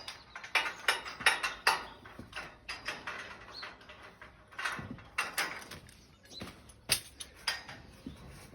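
Irregular metallic clanks and knocks of scaffold tubes and fittings being handled during a scaffold strip, some sharp and ringing briefly.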